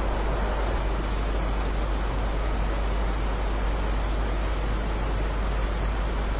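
Steady, even rain noise with no separate drops or thunder, heaviest in the low end with a deep rumble underneath.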